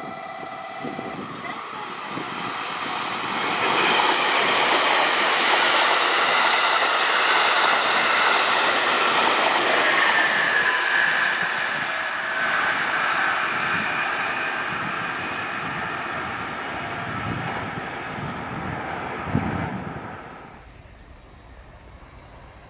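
A JR Kyushu 787 series electric limited express passing through stations at speed: wheel and rail noise mixed with a steady whine, loud after building over the first few seconds. There is a single sharp clack shortly before the sound drops away sharply near the end.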